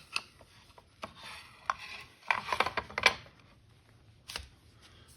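Irregular scraping and clicking of a metal tool working a still-hot, freshly cast lead ingot. Most of the strokes come in a cluster about two to three seconds in, with one more sharp knock near the end.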